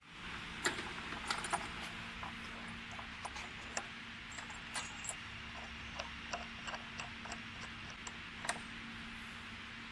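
Metal CNC router hold-down clamp parts clicking and clinking as they are handled and fitted, a string of irregular light taps over a steady hiss and low hum.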